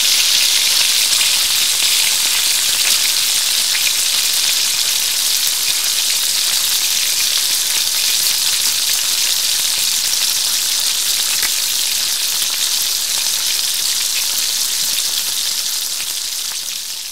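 Food frying in hot oil: a steady, bright sizzle with small scattered crackles, fading out gradually near the end.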